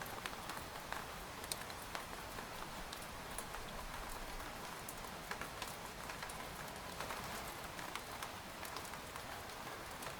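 Steady rain pattering on a tent: a continuous soft hiss with many separate drop ticks scattered throughout.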